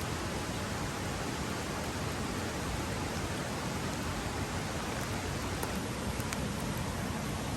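Steady rushing of a mountain stream, an even wash of water noise, with a few faint ticks in the second half.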